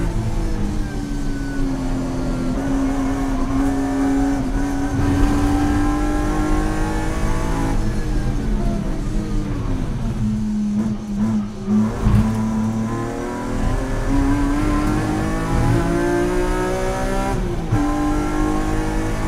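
BMW E46 M3's S54 straight-six with headers and a race exhaust, heard from inside the cabin under hard acceleration. Its pitch falls under braking with downshift blips about halfway through, then climbs through the revs again, with an upshift near the end.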